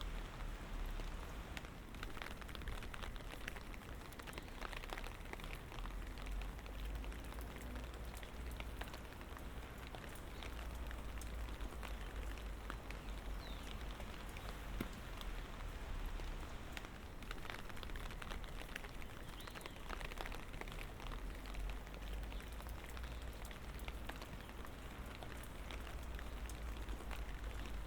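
Light rain falling, a steady patter of many small drop ticks, over a steady low rumble.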